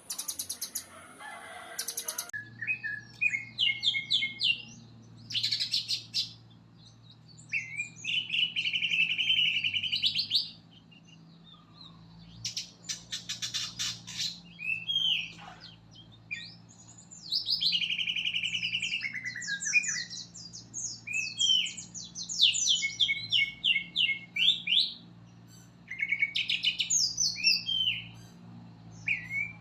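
Songbird masteran recording: a bird singing a varied run of loud whistled sweeps, fast trills and buzzy chatters, broken by short pauses. A faint low hum runs underneath from about two seconds in.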